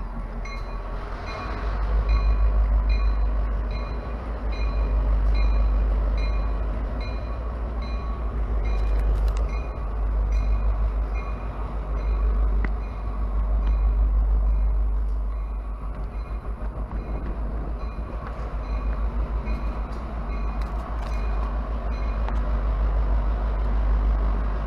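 EMD GP38 diesel locomotive running past, its deep engine rumble swelling and easing as it goes by. A bell rings about twice a second and stops a couple of seconds before the end.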